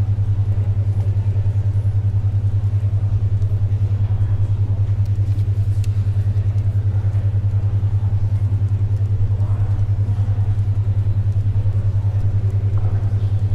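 A steady low hum pulsing evenly about ten times a second: a 10.2 Hz alpha brainwave tone. Under it, faint library ambience with the odd soft tick of paper or pencil.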